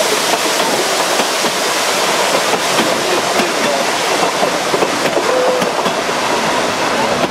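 Narrow-gauge railway passenger coaches rolling past close by: a steady rumble and rattle of wheels and running gear on the rails.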